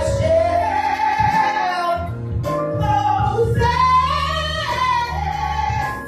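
A solo voice singing a gospel song in long held, sliding notes over a steady accompaniment.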